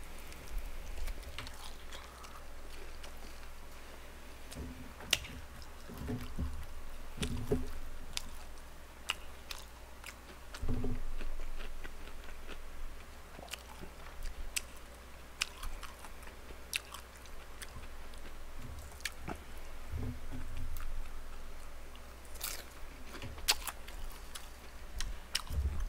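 A man chewing a mouthful of boneless fried chicken close to the microphone, with scattered small clicks.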